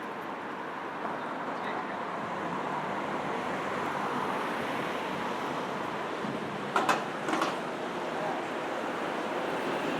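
Passing road traffic: a steady wash of engine and tyre noise that grows slowly louder. A few sharp knocks or clicks come about seven seconds in.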